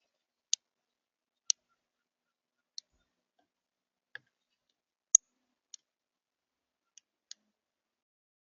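Birds at a feeder making short, sharp, high-pitched ticks, eight of them at irregular spacing, the loudest about halfway through.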